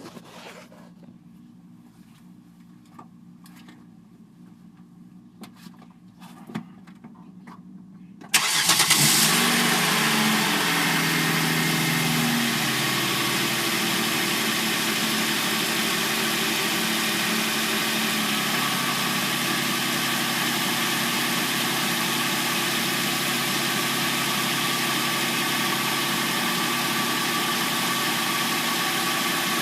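Hyundai Sonata replacement engine cold-started after sitting overnight: a few faint clicks, then it catches about eight seconds in. It runs at a fast idle that steps down over the next several seconds into a steady idle.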